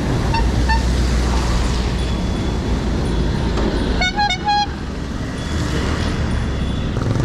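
Bicycle horn beeping in short toots: two faint beeps near the start and two louder ones about four seconds in, over a steady low rush of road and wind noise.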